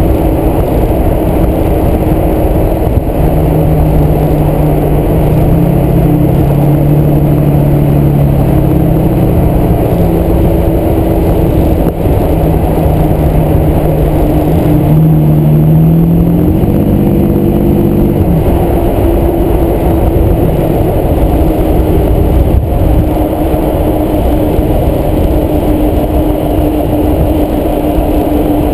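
A 2010 Toyota Tacoma driving, with loud engine and road rumble. The engine note steps up and down in pitch several times.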